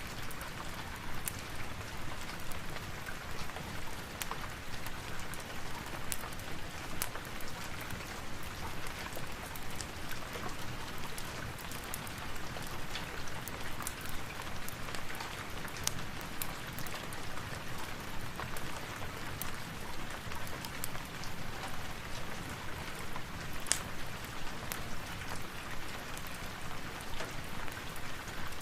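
Steady rain hissing, mixed with a crackling log fire whose sharp pops come scattered and irregularly over the rain.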